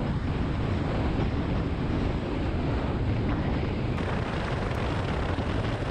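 Heavy wind buffeting the microphone of a camera on a moving motorcycle: a dense, steady rushing noise, heaviest in the low end.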